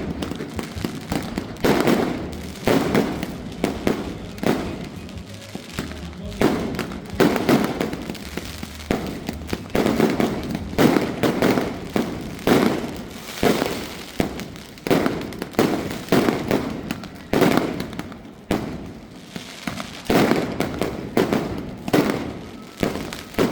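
Cock brand Clatter 64 multi-shot firework firing shot after shot, about one bang a second, each dying away quickly before the next.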